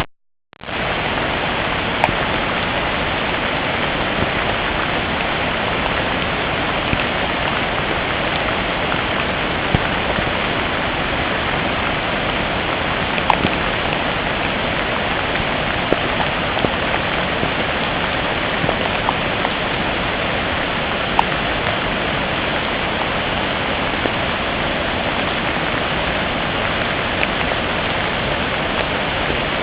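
Steady heavy rain: a dense, even hiss, with an occasional single drop ticking out close by.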